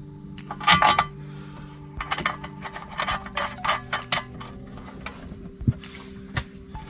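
Metal parts and hand tools clinking and rattling in short bursts while a zero-turn mower's control panel is being refitted.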